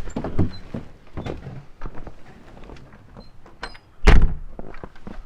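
A series of knocks and clunks, the loudest a heavy thud about four seconds in.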